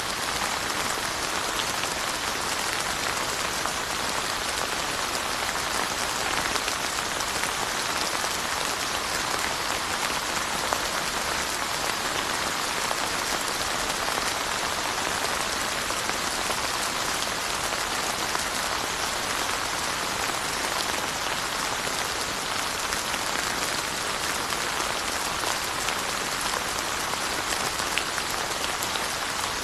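Steady rain falling and pattering on surfaces, an even hiss with scattered drop ticks and no letting up.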